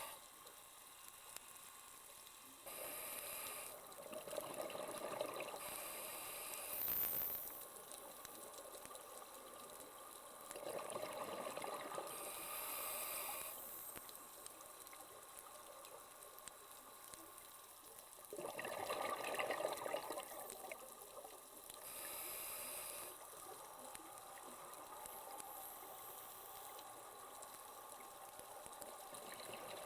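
Underwater, a scuba diver's exhaled bubbles rush up in bursts every few seconds, over a steady faint hiss.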